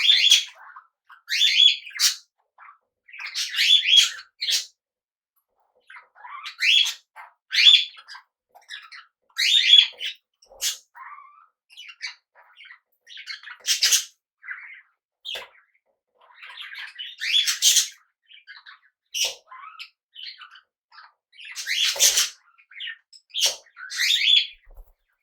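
Small pet parrots chirping and squawking in short bursts, a call every second or two, with a few louder, harsher squawks.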